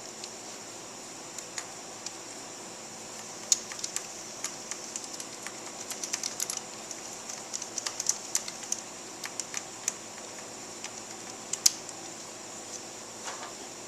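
Scattered light clicks and taps of hand tools and small parts being handled during work on a motorcycle's front end, busiest through the middle, over a steady faint hiss.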